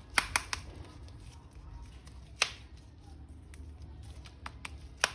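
Scattered sharp clicks and taps of hard plastic as a toy action figure is handled, over a low steady hum. The loudest click comes about two and a half seconds in.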